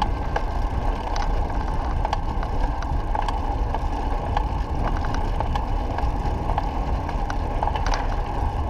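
Steady wind rush and buffeting on a GoPro camera riding along on a bicycle, with scattered small clicks and rattles from the bike.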